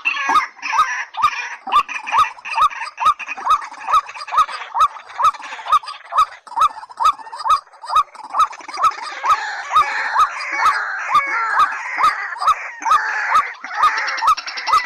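White-breasted waterhen and watercock calls: short hooked notes repeated about three times a second, each with a sharp click. A denser, harsher chorus of calls builds over them from about halfway.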